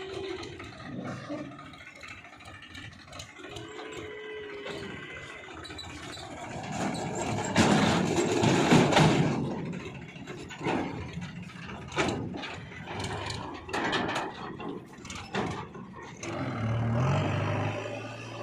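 JCB 3DX backhoe loader at work digging and loading soil, its engine running with scraping and rattling. There is a louder noisy stretch about eight seconds in, then a run of sharp knocks, and a steady low hum near the end.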